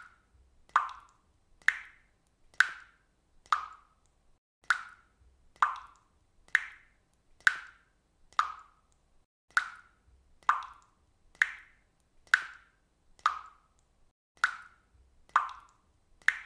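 Water dripping from a faucet: single drops plopping at a steady pace, about one a second.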